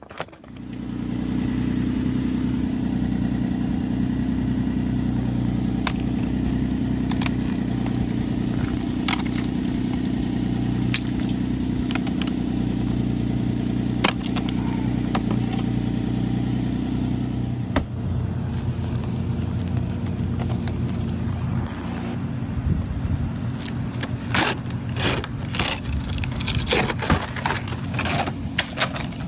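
A vehicle engine running steadily at an even pitch, with a few sharp clicks. After about 18 seconds the steady hum gives way to an uneven rumble with a growing run of clicks and knocks.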